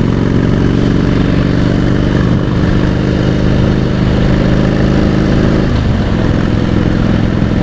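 Harley-Davidson Softail Deluxe's V-twin engine running steadily while riding, with wind and road noise; the engine note dips about six seconds in, as on easing off the throttle or a gear change.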